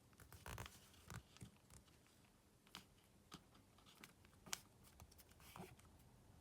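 Faint handling sounds of a smartphone being worked on by hand: a short scraping rustle about half a second in, then scattered sharp clicks and taps, the loudest about four and a half seconds in.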